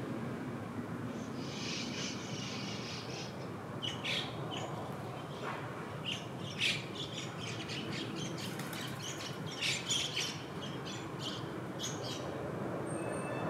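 Small birds chirping and calling over and over, starting about a second in, over a steady low background hum.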